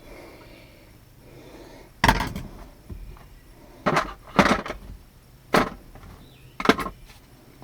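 Five sharp clacks and knocks, a second or so apart, from work on the pickup's door and its handle parts.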